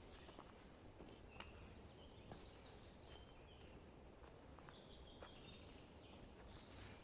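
Faint forest birdsong over a low background rumble: a quick falling series of high notes about a second and a half in, then more scattered calls, with a few soft clicks.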